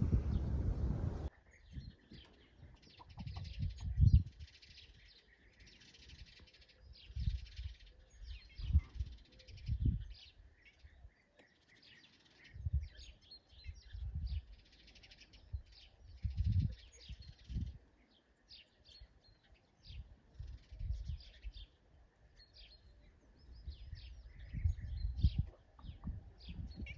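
Birds chirping in many short, repeated calls, with low rumbling bursts every few seconds.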